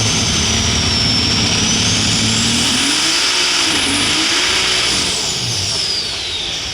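John Deere light super stock pulling tractor's turbocharged engine running flat out under load, with a high whine over the engine note. About three seconds in the engine note wavers up and down, and near the end the whine falls away and the engine sound drops off.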